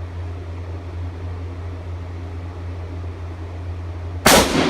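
Steady low hum, then a little over four seconds in a single shot from an M1917 Enfield rifle in .30-06, loud and sharp, with a short echoing tail from the enclosed room.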